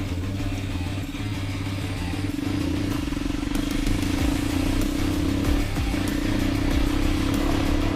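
Dirt bike engine running at a steady speed, with background music and its stepped bass notes underneath.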